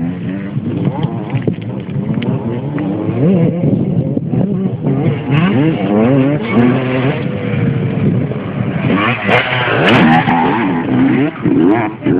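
Several motocross motorcycle engines running together, their pitch rising and falling as the throttles open and close. There are a few sharp clicks about nine to ten seconds in.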